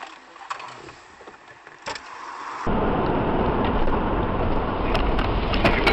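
Car driving noise heard from inside the vehicle: at first a quiet hum with a few clicks, then a sudden jump, about two and a half seconds in, to a loud, steady rumble of engine and road, with a few sharp clicks near the end.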